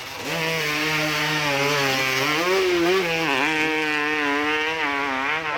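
Hill-climb motorcycle engine running at high revs under hard throttle, its pitch wavering as the rider works the throttle, with a brief dip about three seconds in.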